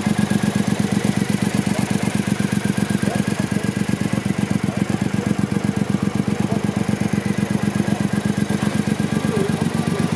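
Triumph Bonneville America 865's air-cooled parallel-twin engine idling steadily with an even, fast pulsing beat.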